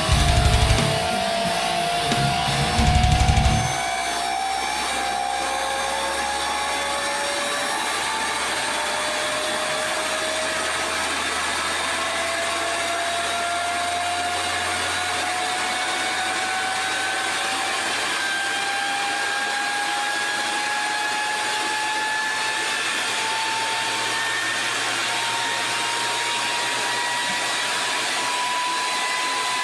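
Rock music with electric guitar for about the first four seconds, cutting off abruptly. Then an electric motor driven by a Danfoss VLT2800 frequency inverter runs with a steady whir and a whine that slowly rises in pitch as the drive ramps up its output frequency.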